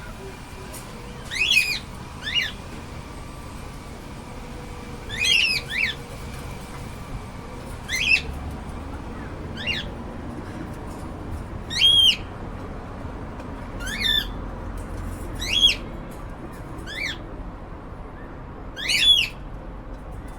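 Cockatiels calling: short, rising chirps with a whistled, harmonic quality, about ten of them, a second or two apart and sometimes in quick pairs.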